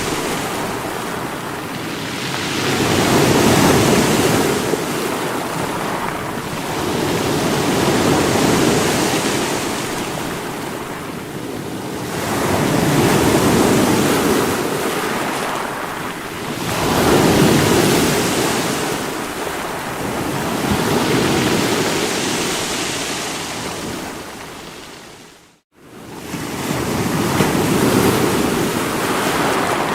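Sea waves breaking against rocks: a continuous rushing wash that swells and falls back every four to five seconds. About three-quarters of the way through, the sound cuts out completely for a split second and then returns.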